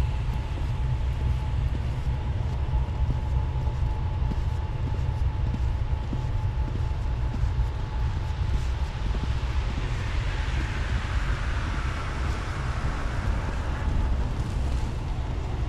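Steady roaring noise of a railroad switch heater running to keep the switches from freezing, over a low rumble, with a faint steady tone and a hissing swell about two-thirds of the way through.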